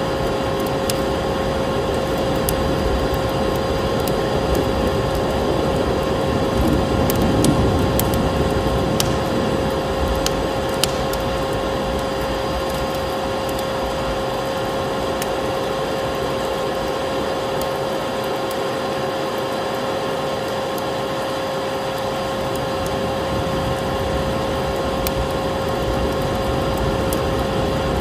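Vacuum cleaner motor running steadily with a constant whine, over the crackle of a wood fire with scattered sharp pops.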